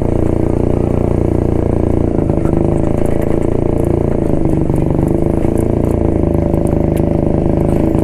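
1972 Jawa motorcycle's two-stroke engine running steadily under way, its note shifting slightly about two seconds in.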